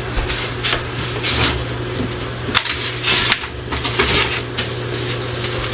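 Dishes and food containers clattering and knocking as they are handled, with a brief hiss about three seconds in, over a steady low hum.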